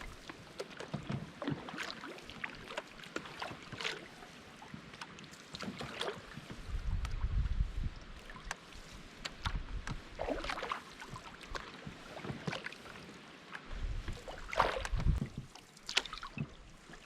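Canoe paddles dipping and pulling through lake water, with splashes and drips every second or two. Gusts of wind rumble on the microphone twice.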